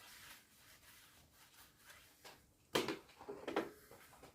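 Faint rubbing strokes as lubricant is worked onto a tyre bead, followed by a brief louder clatter of handling noises about three seconds in.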